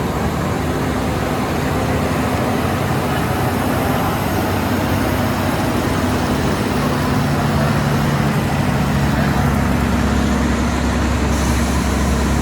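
Heavy truck engine running steadily with a dense, noisy drone. Its low tone shifts about seven seconds in and grows stronger near the end.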